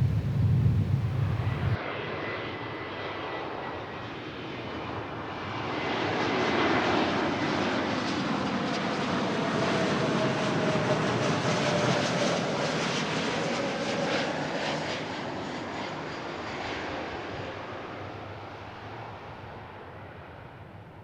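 Jet airliner passing, its engine noise swelling to a peak and then slowly fading away, with a faint whine that falls slightly in pitch as it goes by. A loud low rumble cuts off about two seconds in.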